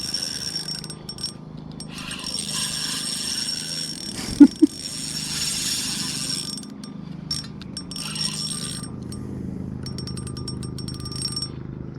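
Fishing reel working against a hooked eel, whirring and ratcheting in stretches, with rapid clicking near the end. About four and a half seconds in, two loud short sounds stand out.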